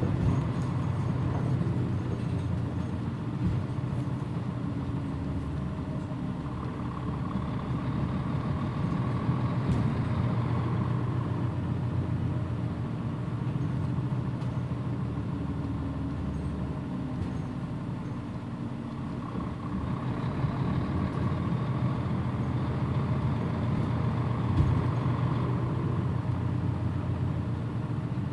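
Mitsubishi Fuso Aero Star city bus (PJ-MP35JM) under way, its diesel engine running with a steady low drone. A higher whine swells and fades twice, about a quarter of the way in and again past two-thirds.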